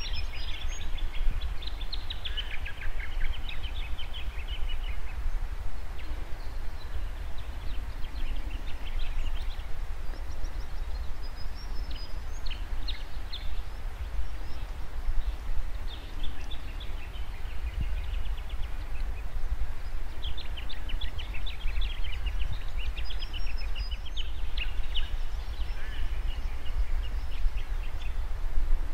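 Birds calling outdoors: a rapid trill of quick repeated notes comes every few seconds, over a steady low rumble of background noise.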